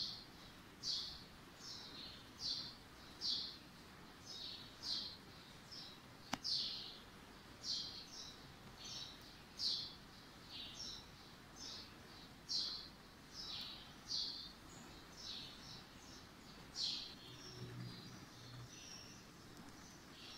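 A small bird chirping over and over, short high chirps about two a second, with one sharp click about six seconds in.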